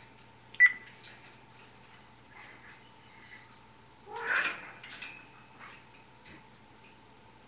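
African grey parrot making non-word sounds: a loud, sharp click under a second in, a short wavering call about four seconds in, then a brief whistle, with small clicks between.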